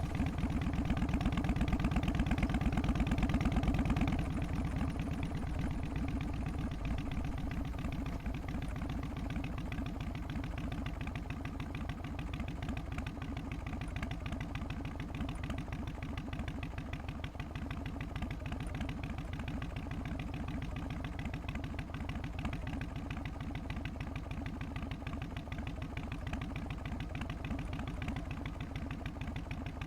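Harley-Davidson Twin Cam 88 V-twin idling with its uneven, loping three-beat rhythm. It is a little louder for the first four seconds, then settles to a steady idle.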